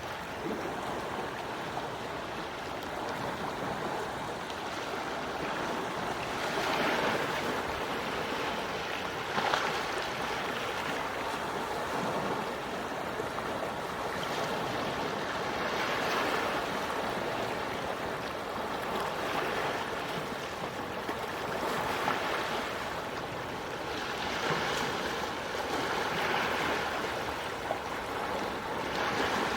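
Small, gentle waves washing in and breaking, a soft rushing wash that swells and fades every few seconds.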